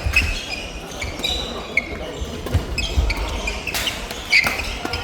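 Badminton play on a hall court: sharp racket strikes on the shuttlecock, short shoe squeaks on the court floor, and low thuds of players' footfalls.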